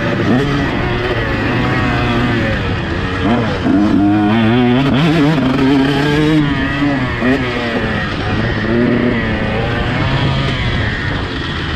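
Motocross bike engine revving up and down repeatedly, its pitch rising and falling throughout.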